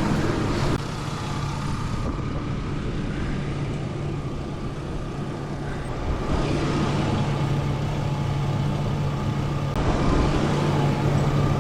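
2002 Chevy Blazer's 4.3L Vortec V6 running steadily with a rattle from underneath; it sounds terrible. The engine runs rough, and the rattle comes only when it is in gear.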